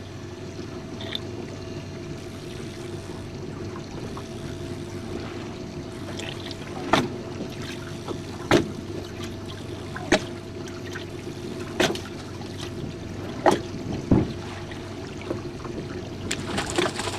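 Small boat at rest on the water: a steady motor hum with water trickling and lapping. From about seven seconds in come sharp slaps of water against the hull, roughly every second and a half.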